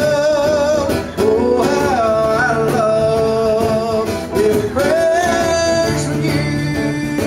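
Live acoustic country music: two voices singing long held notes in harmony over acoustic guitar, with cajon hits keeping time.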